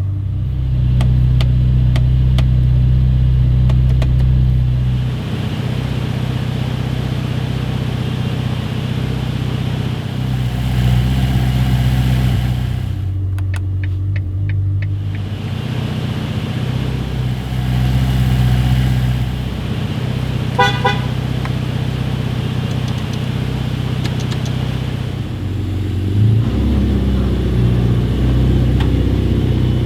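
Ferrari F8 Tributo's twin-turbocharged 3.9-litre V8 running at low revs, its low steady note stepping up and down several times. A short run of rapid beeps or a toot sounds about two-thirds of the way through.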